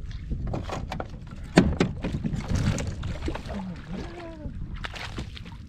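Knocks, clatter and rustling of handling on a fishing kayak while a bass is being landed, with one sharp loud knock about a second and a half in.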